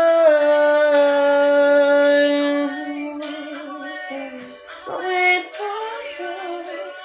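A woman's singing voice holding one long note that steps down slightly in pitch, then dropping away about two and a half seconds in to quieter, wavering sung phrases.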